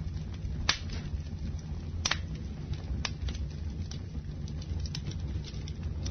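Campfire burning with a steady low rumble and scattered sharp crackles and pops from the burning wood, the loudest about a second in and again a second later.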